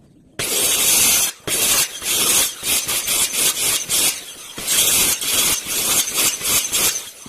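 Wood being worked by hand in a run of quick, loud rasping strokes, starting abruptly and pausing briefly twice, as a chair leg is trimmed to fit.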